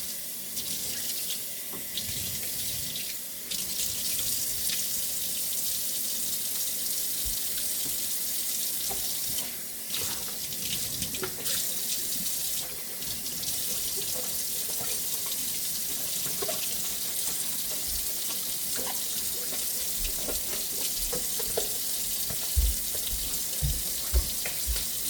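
Kitchen tap running steadily into a sink, the flow briefly interrupted a few times, with small clinks and a couple of dull knocks near the end.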